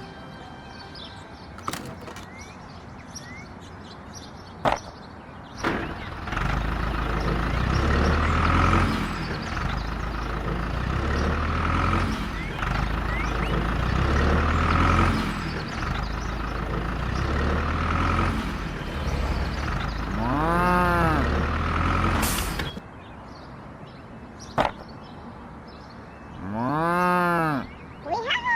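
Background music with a repeating bass pattern, stopping suddenly a little before the end. Twice, a drawn-out call that rises and then falls in pitch is heard, the second one after the music has stopped.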